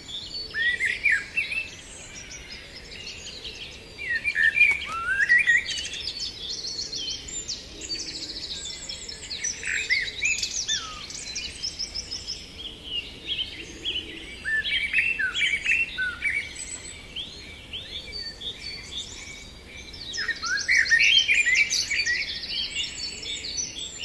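A chorus of many birds chirping and singing at once: short, quick, overlapping calls that rise and fall, easing off briefly a couple of times.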